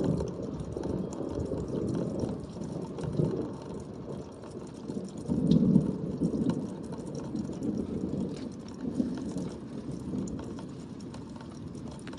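Rain falling, with scattered drops ticking close by, over a low noisy rumble that swells and fades, loudest about halfway through.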